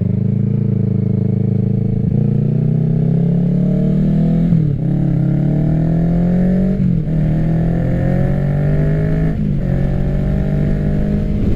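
Kawasaki Ninja 650's parallel-twin engine through an M4 full exhaust system, accelerating through the gears. Its pitch climbs steadily, then drops sharply at each of three upshifts, about every two and a half seconds after the first.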